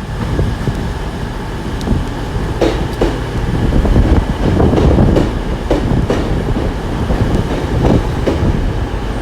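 Two-car Class 150 Sprinter diesel multiple unit running into the platform: a steady low diesel and wheel rumble, with the wheels clicking now and then over rail joints.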